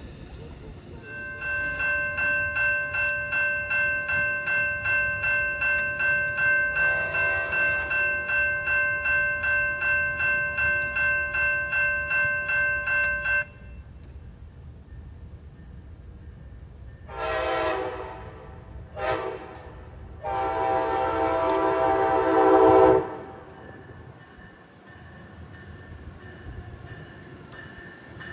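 A railroad grade-crossing bell rings rapidly for about twelve seconds, then stops. A locomotive horn follows with a long blast, a short blast and another long blast.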